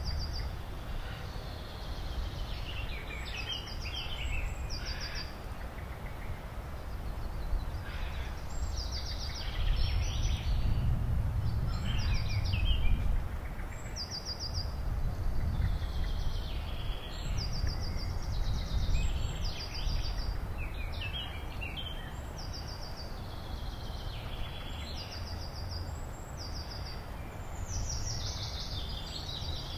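Small birds singing short, high trilled phrases, one every second or two, over a steady low rumble.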